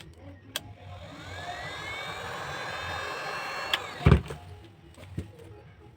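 A small electric motor spins up with a rising whine, runs for about three seconds and stops, followed by a single sharp thump.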